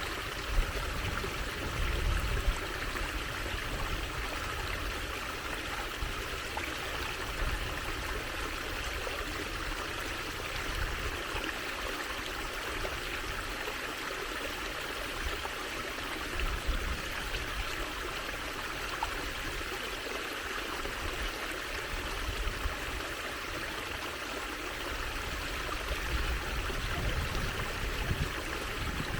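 Running water trickling and flowing steadily, like a small stream.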